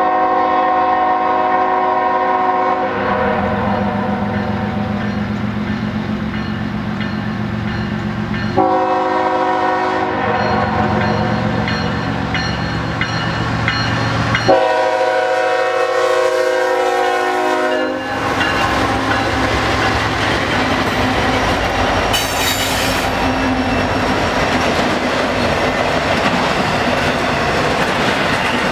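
Lead diesel locomotive (a GE ES44AC GEVO) blowing its air horn three times as it approaches, a long blast, a short one, then a long one, over the rumble of the diesel engines. Then the locomotives and double-stack intermodal cars roll past close by: a steady rush of steel wheels on rail with clickety-clack, and a brief high-pitched squeal a little past the middle.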